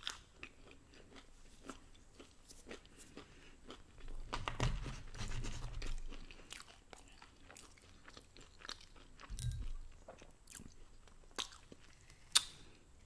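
Chewing and crunching of food, with small mouth clicks and smacks throughout and louder crunching about four to six seconds in and again near the ninth second.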